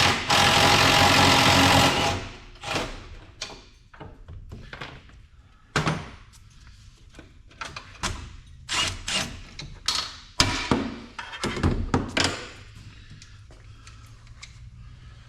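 A loud, steady machine noise cuts off about two seconds in. Then come scattered knocks and clunks of parts being handled and set down.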